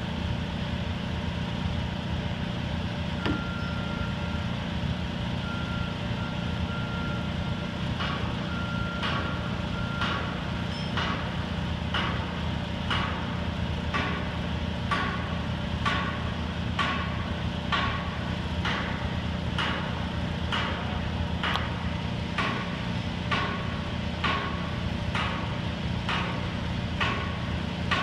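Detroit Diesel engine of an American Hoist & Derrick 9530 crane running steadily. About eight seconds in, a warning alarm starts beeping about once a second and keeps on.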